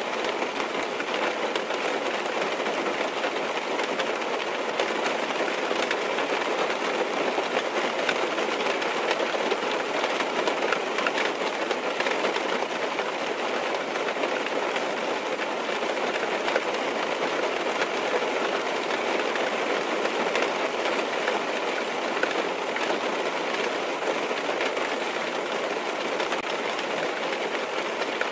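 Steady rain falling on a car's roof and windows, heard from inside the cabin as an even, unbroken wash of drops.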